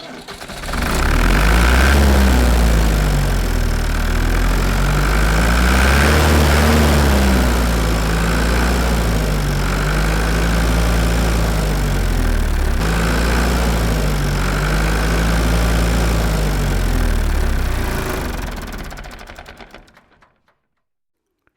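An engine running, its pitch rising and falling in slow, repeated waves every few seconds, then fading out near the end.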